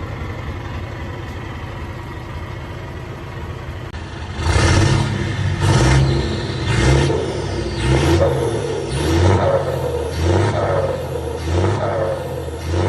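Engine with a variable-geometry turbo running through a rebuilt muffler exhaust. It idles steadily, then from about four seconds in is blipped in quick revs about once a second, eight times.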